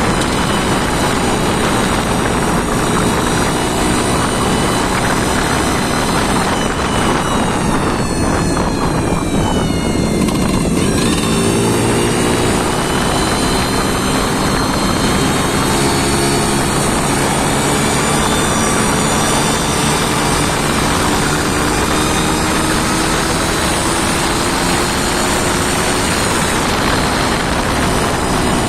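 An engine running on test, a loud steady drone whose pitch drops about seven to eleven seconds in, then climbs slowly as the engine speeds up again.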